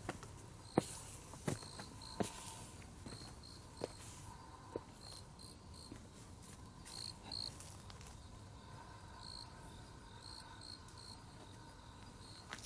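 Crickets chirping in short, repeated pulses, with a few sharp clicks in the first few seconds.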